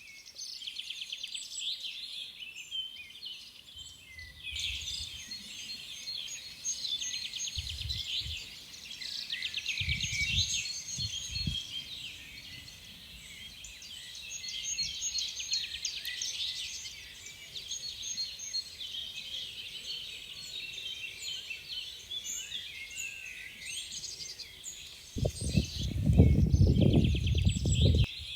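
Several songbirds singing and chirping together in a busy, continuous chorus. A few low rumbling bursts come through underneath, the loudest near the end.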